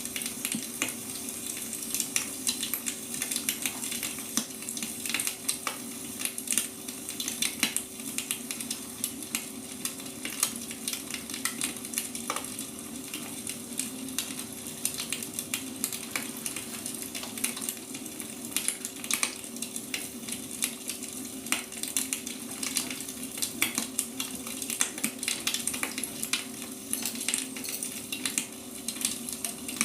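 Burning firewood crackling, with irregular pops and snaps over a steady hum.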